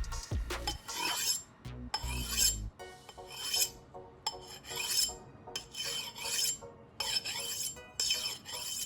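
Knife blade being drawn again and again across a spark plug to sharpen it: rasping, scraping strokes roughly every two-thirds of a second. Background music with a bass beat plays under the first few seconds.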